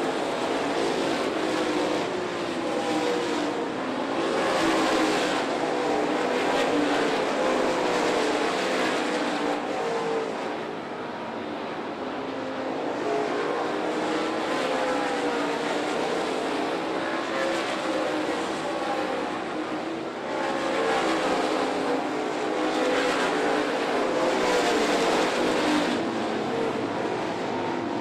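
A field of dirt late model race cars running at speed, several V8 engines sounding at once with pitches rising and falling. The sound swells as the pack passes, fades from about ten seconds in, and swells again after about twenty seconds.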